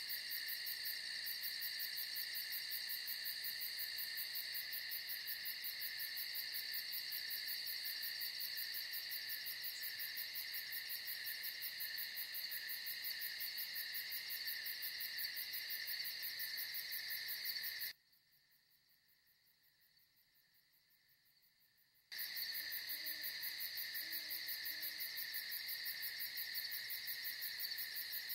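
Crickets chirping in a steady, fast-pulsing chorus that cuts out for about four seconds in the second half, then resumes. Soon after it returns, a few faint low hoots sound.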